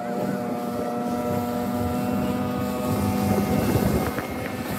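Motorboat engine running steadily at a constant pitch, with a brief swell of rushing noise a little past three seconds in.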